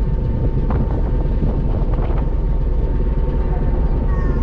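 Steady deep rumble of a ferry's engine running underway, with an even hum over it.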